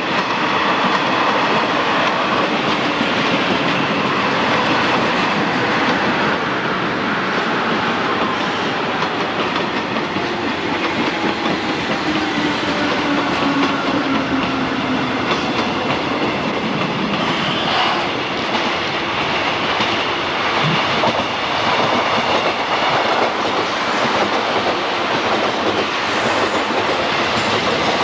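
A train passing close by on the track, wheels clicking over the rail joints with some squeal from the wheels, loud and steady.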